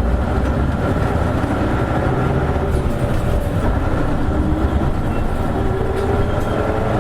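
Isuzu Erga KL-LV280N1 city bus under way, heard from inside the cabin: a steady low diesel engine rumble with a constant whine over it.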